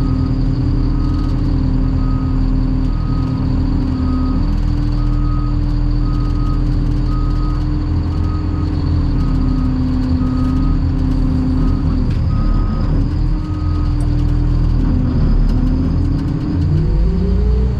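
Cat 725 articulated dump truck's diesel engine running as the machine is driven, with a backup alarm beeping steadily, a little more than one beep a second. The beeping stops about 13 seconds in, and near the end the engine note rises as it picks up revs.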